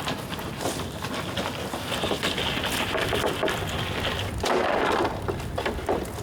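Bonfire of damp bamboo burning: a dense run of sharp crackles and pops over a steady hiss, with a louder rushing flare-up about four and a half seconds in.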